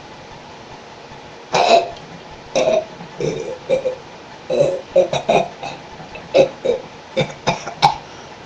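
A person making a run of short, burp-like noises with the mouth and throat, about a dozen in quick succession, starting about a second and a half in.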